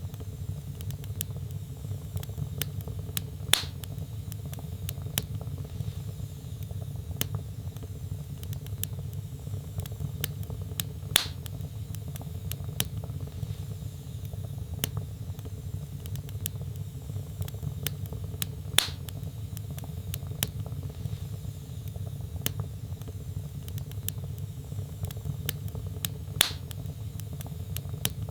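Wood fire burning in a fireplace: a steady low rumble with frequent small crackles, and four louder pops spaced evenly about every seven and a half seconds.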